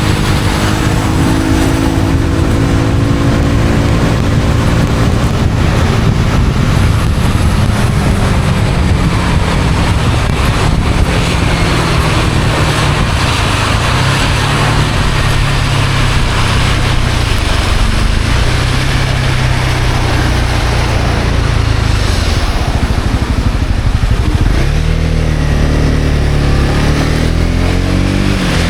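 Honda CB250R's single-cylinder engine running under way, its note stepping up and down in pitch with throttle and gear changes. A dip about 24 seconds in is followed by a rise near the end. Constant wind and road noise runs underneath.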